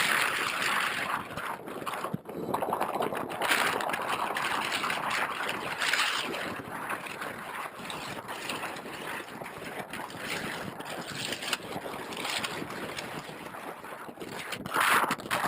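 Wind rushing over the onboard camera's microphone as the RC plane flies, swelling and easing every second or two, with loud gusts near the start and the end.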